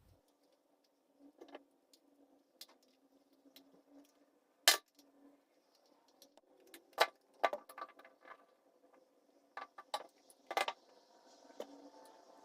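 Small hard parts being handled and fitted by hand, making scattered clicks and knocks, with one louder knock about five seconds in.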